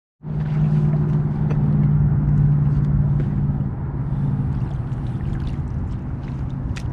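An engine running steadily with a low, even hum over a rumbling noise, a little weaker after about three and a half seconds.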